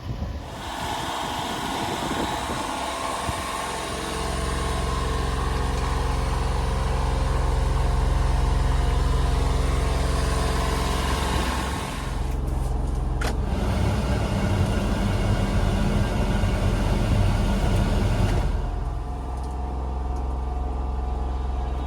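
Honda Acty kei truck's 660cc three-cylinder engine idling steadily. Shortly past the middle, after a click, it holds a higher steady speed for about five seconds, then settles back to its lower idle near the end.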